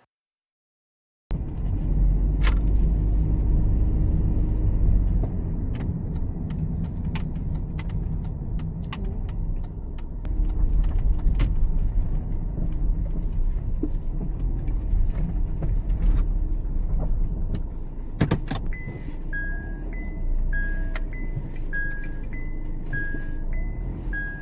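Car driving: a steady low road rumble with scattered clicks and knocks. About 19 seconds in, a light two-note tune starts repeating over it.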